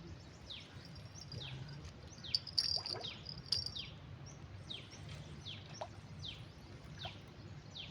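A bird calling a long run of short, quickly falling chirps, about two a second, with a few sharp clicks in the middle.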